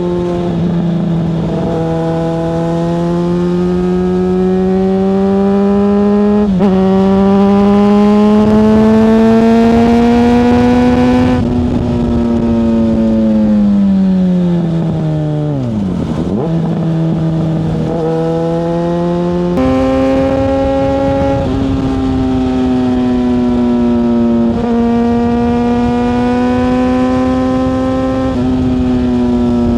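Yamaha FZ6S 600cc inline-four engine, heard from the bike itself while riding. The engine note climbs in pitch and drops back twice in the first few seconds as the bike shifts up. About halfway through the pitch falls away as the bike slows, then jumps back up twice and settles into a steady cruise with a slowly wavering pitch.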